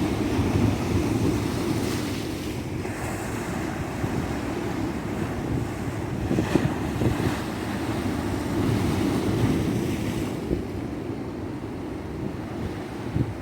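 Ocean surf breaking and washing up a beach, a continuous rush that swells and eases, softening about ten seconds in as the wash recedes. Wind rumbles on the microphone underneath.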